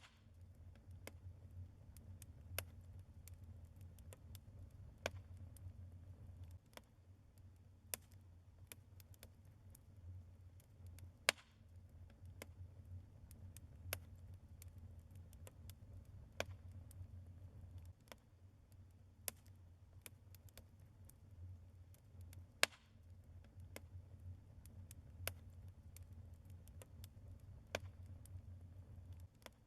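Burning logs in a fireplace crackling: irregular sharp pops and snaps, a few louder than the rest, over a faint low rumble of the fire.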